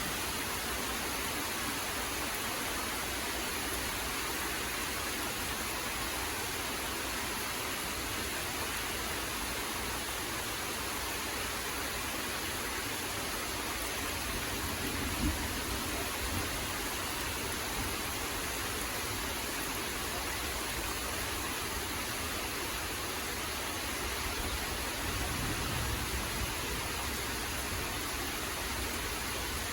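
Steady rain falling, an even hiss. There is a brief tap about halfway through and a low rumble that swells briefly near the end.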